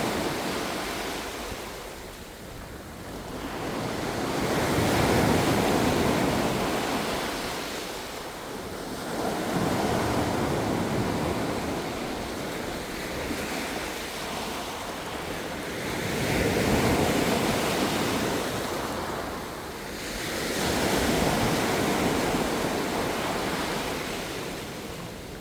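Ocean waves breaking and washing on the shore, swelling and ebbing in slow surges every few seconds, with some wind on the microphone.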